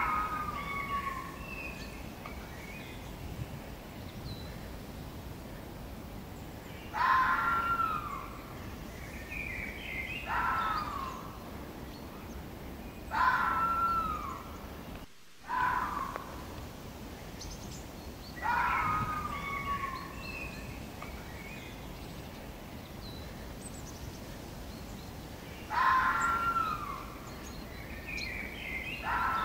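Red foxes giving short high whining calls, each about a second long and falling in pitch, repeated every few seconds at uneven gaps over steady outdoor background noise.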